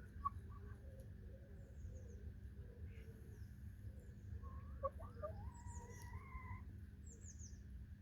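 Backyard hens making soft, low clucking calls, with a longer held call about five to six seconds in. Small wild birds chirp faintly and high, over a steady low rumble.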